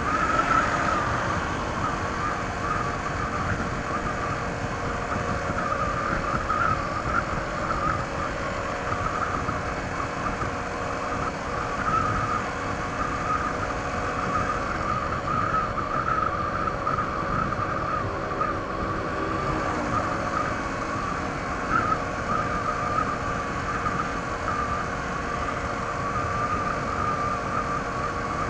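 Honda ADV 160 scooter's single-cylinder engine on its stock exhaust, running steadily at cruising speed, with wind and road noise rushing past.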